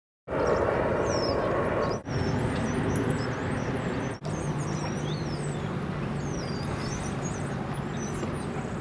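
Outdoor ambience: a steady vehicle rumble with a low hum, and high chirping over it. The sound drops out briefly about two seconds in and again about four seconds in.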